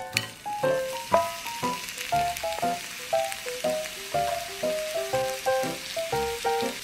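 Cabbage kimchi hitting hot oil in a nonstick frying pan and sizzling steadily, starting just after the beginning. Background piano music plays over it.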